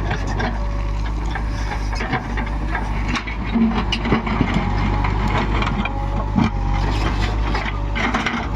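Heavy diesel engine running steadily at earthmoving work, with frequent knocks and clatters throughout.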